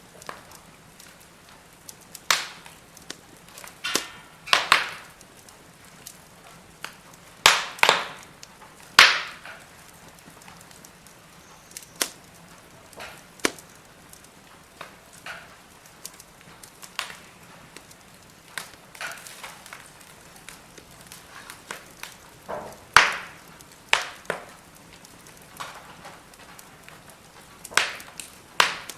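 Firewood burning in a fire pit, crackling with irregular sharp pops and snaps, a few of them loud, among many small ticks.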